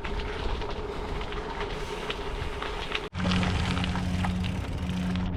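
Wind and trail noise on the microphone of a moving bicycle. About three seconds in, the sound cuts out for an instant and a steady low hum takes over.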